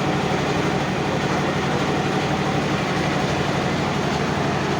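A motor boat's engine running steadily at a constant speed, a low drone with a fast, even pulse.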